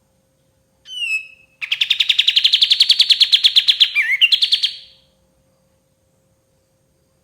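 Kapas tembak bulbul singing. A short downward-slurred call is followed by a loud, fast trill of rapid repeated notes, about ten a second, lasting some three seconds, with a brief slurred note near its end.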